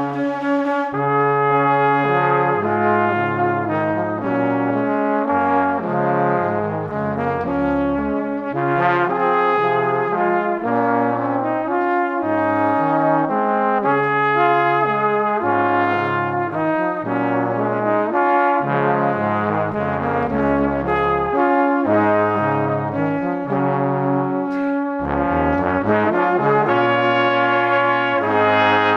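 Background music with brass-like instrumental melody over a moving bass line, continuous throughout.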